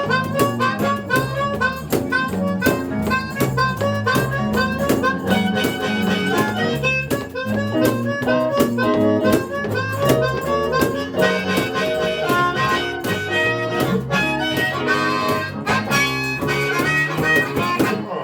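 Blues harmonica playing a run of quick notes with a live band, over a bass line and a steady beat.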